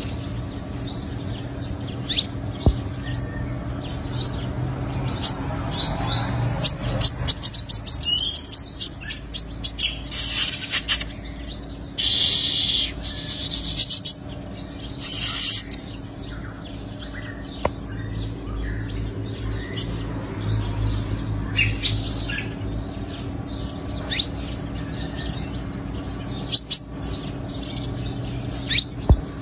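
Sunbirds singing against each other: a string of high, quick chirps and sweeping notes, with a fast trill about seven seconds in and buzzy chattering bursts around ten to fifteen seconds.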